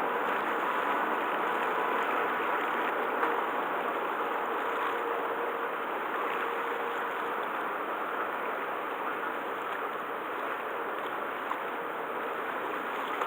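Steady rushing of churned seawater as a car ferry pulls away, with a faint steady hum that fades out partway through.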